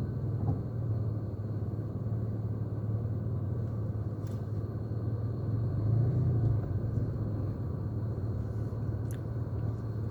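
Mitsubishi Mirage engine running steadily with a low hum, heard from inside the car, swelling briefly about six seconds in.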